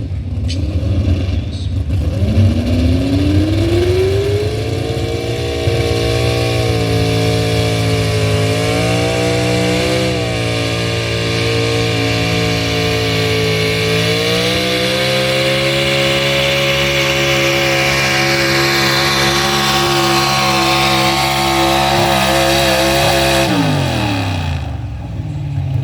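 Pulling truck's engine revving up over about three seconds and held at high revs through a pull, with a brief dip and then a step higher partway through, before the revs fall away near the end.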